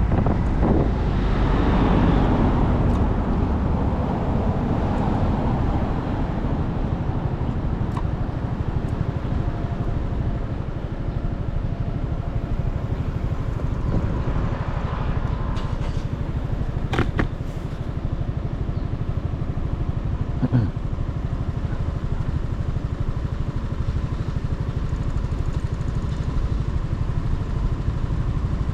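Motorcycle running on the road, a steady low engine and road rumble. It swells louder for the first few seconds, and a couple of short sharp clicks come about two-thirds of the way through.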